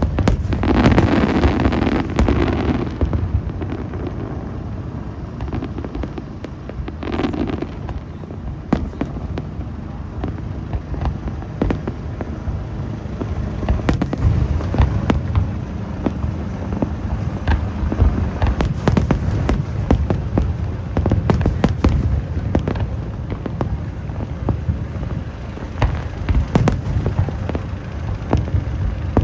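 Aerial fireworks going off continuously: deep overlapping booms with many sharp cracks, and a dense rush of crackle in the first couple of seconds.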